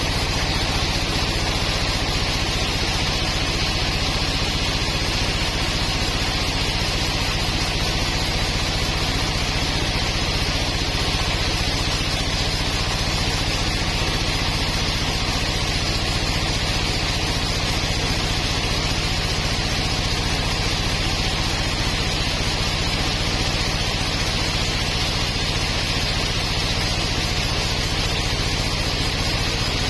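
Sawmill machinery running steadily: a constant motor hum with broad mechanical noise, holding even throughout.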